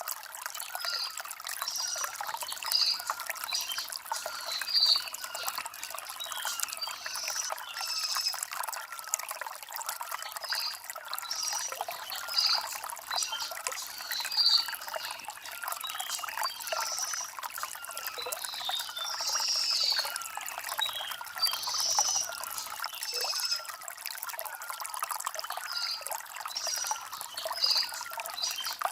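Shallow stream trickling and burbling over river stones, with birds chirping in short, high calls repeated every second or so.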